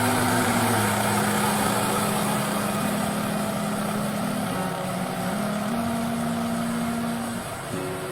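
Tractor engine running steadily, its pitch shifting up and down a few times.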